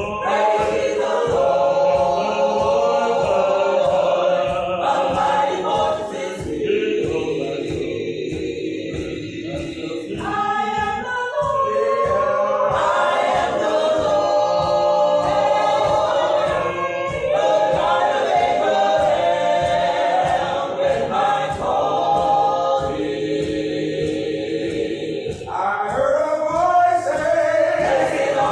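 Church choir singing an a cappella gospel song in several voice parts, phrase after phrase with short breaks, over a steady low beat about twice a second.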